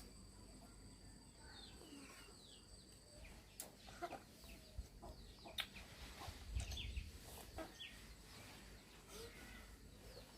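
Chickens clucking faintly in a run of short, scattered calls, with a few sharp clicks among them.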